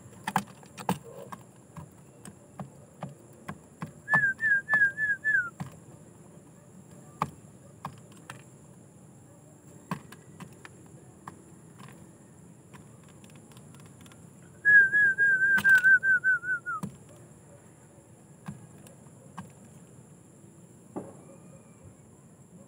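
A bird's high, rapid chirping in two runs: about five quick notes around four seconds in, and a longer run of about ten near the middle. Each run drops slightly in pitch at its end. Light clicks and taps are scattered between them.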